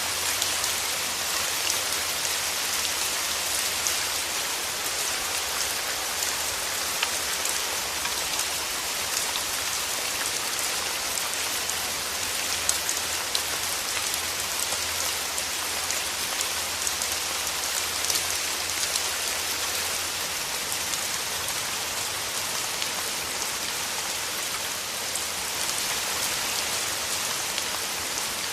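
Steady rain falling through forest trees: an even hiss of rainfall, flecked with individual drops striking leaves and the ground.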